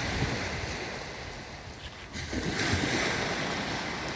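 Sea waves breaking and washing onto the beach, with a fresh wave surging in a little over two seconds in. Wind rumbles on the microphone throughout.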